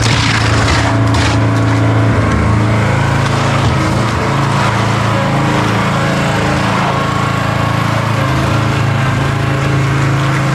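A machine's engine running steadily, its pitch shifting a few times as it works, with some crunching of material around it.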